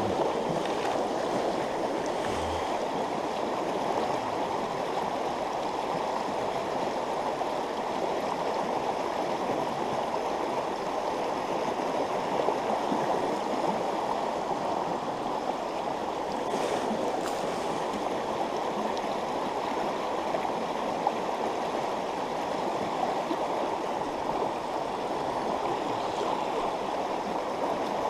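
Fast-flowing stream water rushing steadily over rocks in a riffle.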